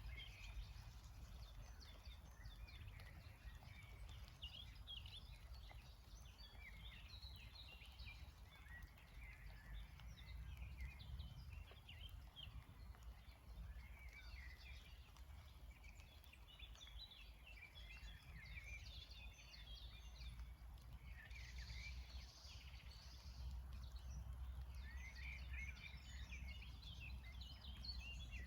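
Faint chorus of many songbirds chirping and trilling in quick, overlapping calls, busier in a few spells, over a low steady rumble.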